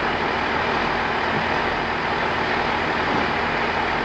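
Diesel train running: a steady, loud rumble and rush of noise with a faint steady hum underneath, unchanging throughout.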